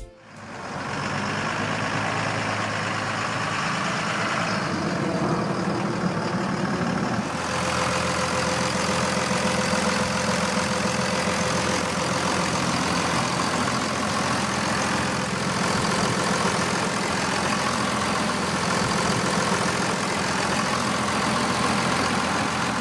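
Cummins six-cylinder turbo diesel in a 1999 Entwistle flightline aircraft tow tractor, idling steadily. The sound grows fuller about seven seconds in.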